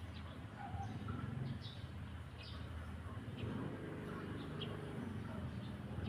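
Small birds chirping: short, high chirps at irregular intervals over a low, steady background rumble.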